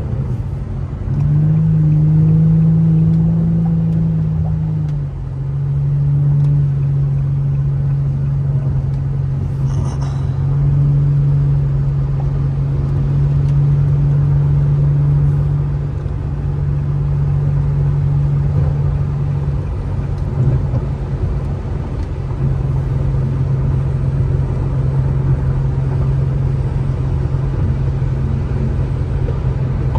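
Infiniti G35's 3.5-litre VQ35HR V6 droning steadily while cruising, heard from inside the car over a low hiss of tyres on wet road. The engine note rises about a second in, eases to a lower steady pitch around five seconds, and drops away briefly around twenty seconds before settling again.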